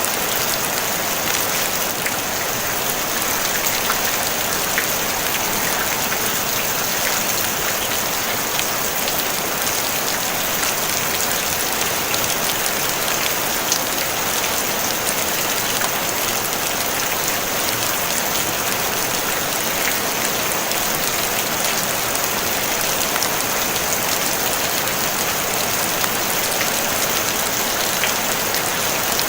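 Steady rain on a tin roof, a dense even hiss of drops with scattered sharper individual drop ticks, no thunder.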